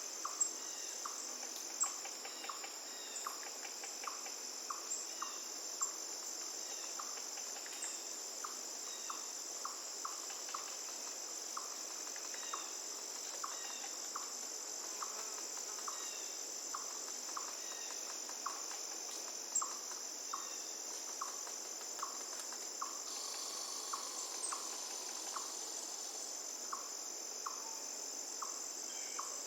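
A steady, high-pitched insect chorus over the even rush of a flowing river, with a short chirping note repeating about once or twice a second.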